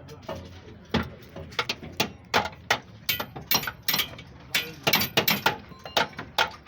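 Metal tools and parts clicking and knocking, irregular sharp taps about two or three a second, some with a short metallic ring, as suspension parts are fitted up.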